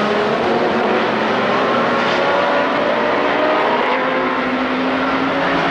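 Race car engines running at high revs, their pitch climbing slowly as the cars accelerate.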